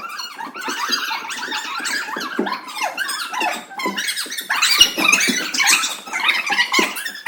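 A group of young children chattering and shouting over one another, many high voices at once, with no single voice standing out.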